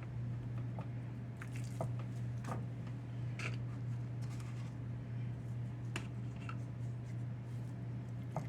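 Dry seasoning being sprinkled and worked into raw ribeye steaks by hand: soft squishing and scattered light taps and scratches, over a steady low hum.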